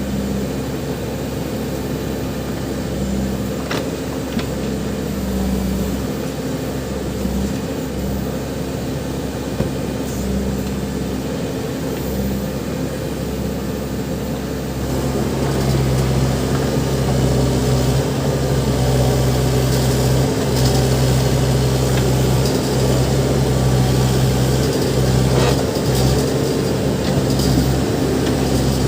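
Backhoe loader's diesel engine running steadily, getting louder about halfway through as it works harder.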